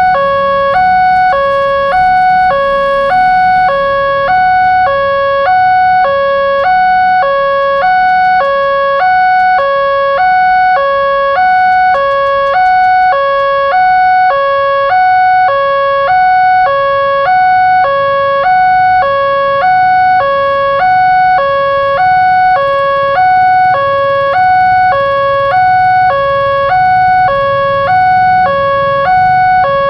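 Railroad level-crossing warning alarm sounding: an electronic two-tone signal switching steadily between a low and a high note, each held about half a second.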